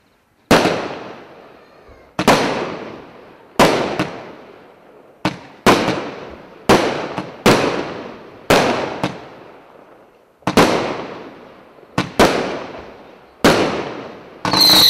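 Consumer firework cake (a 68-shot battery) firing shot after shot, about one every second or so, each a sharp bang that dies away slowly. Near the end, several whistling shells go off together, their falling whistles overlapping.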